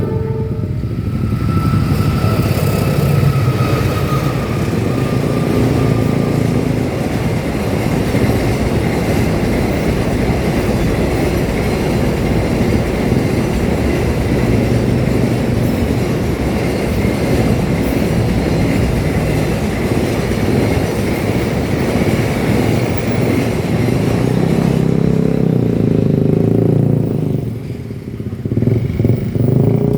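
A train running through a railway level crossing: a loud, steady rumble and rattle of wheels on the rails that dies away about 27 seconds in. Motorcycle engines can be heard near the end.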